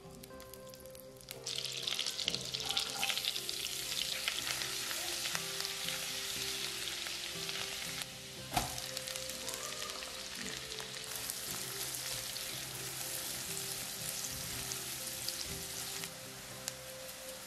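Butter sizzling and crackling as it melts in hot oil in a frying pan, the frying starting about a second and a half in and running steadily, with one sharp knock partway through. Later chopped onion and garlic fry in the butter and are stirred, with faint background music underneath.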